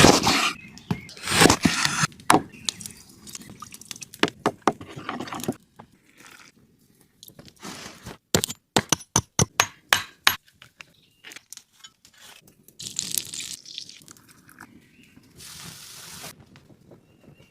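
Food-preparation handling sounds: irregular knocks, clinks and scrapes of utensils and cookware, with a fast run of clicks near the middle and short stretches of hissing.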